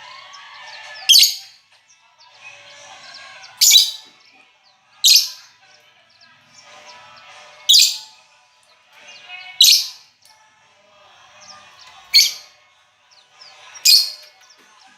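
Lovebirds calling: seven short, piercing shrieks spaced a second or two apart, with softer twittering chatter between them.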